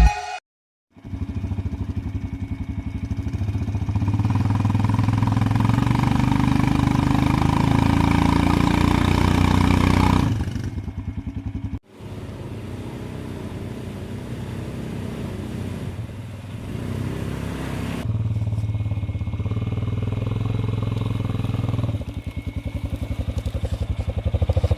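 An engine running steadily with a rapid low pulse, broken off by abrupt cuts twice.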